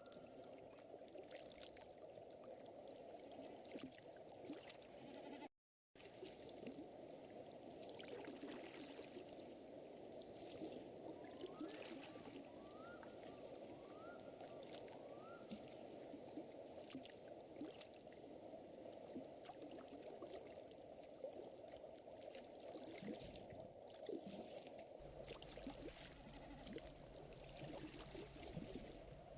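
Faint, steady ambience of a wood fire crackling with water trickling or lapping underneath. Four short rising chirps sound about halfway through, and the sound drops out completely for a moment near the start.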